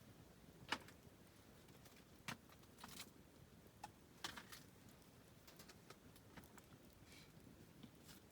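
Wood in a campfire crackling: scattered sharp pops and snaps at irregular intervals, the loudest about a second in.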